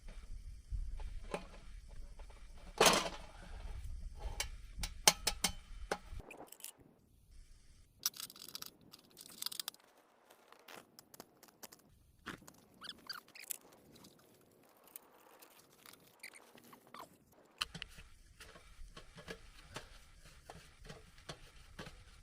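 Packing up a small steel camping stove and its parts: scattered clicks and knocks of metal pieces being handled, with rustling, the sharpest knocks about three and five seconds in. A low rumble of handling noise runs under the first six seconds.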